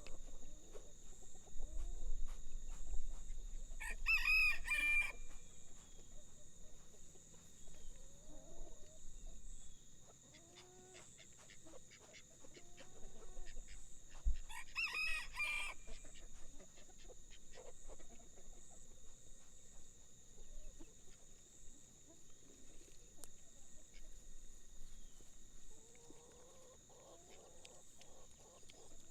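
A rooster crows twice, each crow lasting about a second, the first about four seconds in and the second about fourteen seconds in. Short, soft clucks come between the crows, over a steady high-pitched drone.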